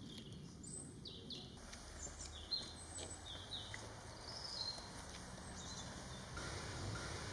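Small birds chirping in short, high calls over a faint outdoor hiss, with a few soft clicks scattered through.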